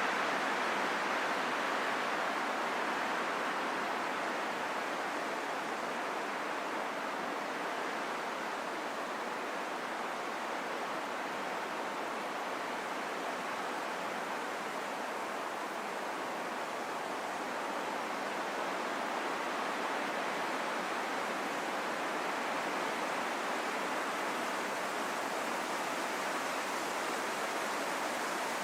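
Wind blowing as a steady, even rush with no distinct gusts, easing slightly over the first few seconds.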